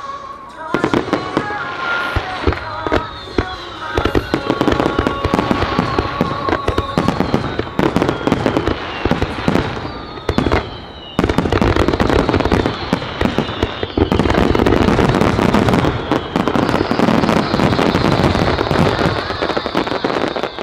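Fireworks shells bursting in rapid succession, the bangs coming thicker from about eleven seconds in until they run together into a near-continuous barrage, with high whistles falling in pitch over them. Music plays underneath, clearest at the start.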